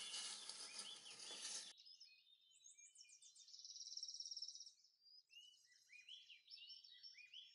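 Faint songbird calls: rapid high trills, a buzzy trill and short chirps with falling notes, repeated throughout. For about the first two seconds they are covered by a short burst of even hiss-like noise that cuts off abruptly.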